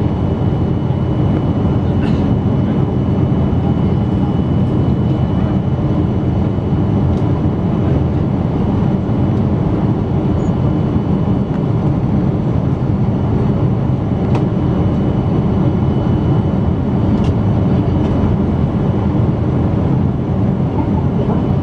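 Steady low rumble inside the cabin of a Boeing 777-200 airliner with its jet engines running. A faint steady high tone sits over it, and a few light clicks come through.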